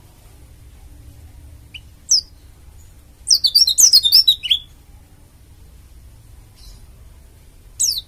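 Pleci dakun Bali white-eye singing: a single high downslurred call, then a quick burst of rapid twittering, and another falling call near the end.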